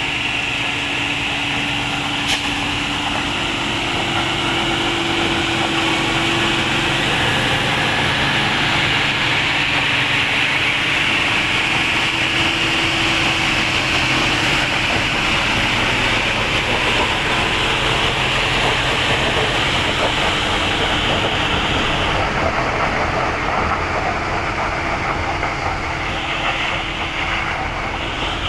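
Heavy truck engine running steadily and loudly under load, with a faint hum under a broad rushing noise; the highest hiss drops away about three quarters of the way through.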